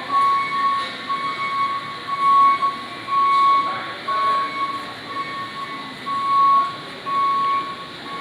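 A high, steady-pitched squeal or beep repeating a little more than once a second, each pulse lasting well over half a second, over a low background hiss.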